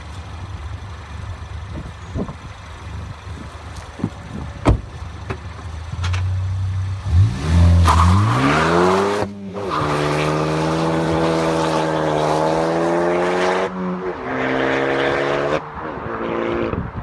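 Ford Focus ST engine and exhaust with the muffler deleted. It starts with a low, steady idle. Then the engine revs up hard with a rising note, breaks off twice for upshifts where the pitch drops, and the sound falls away near the end.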